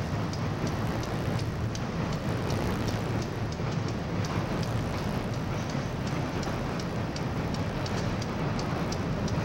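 Freight train cars rolling across a steel girder railroad bridge: a steady low rumble with a quick, regular clicking of wheels, about three clicks a second.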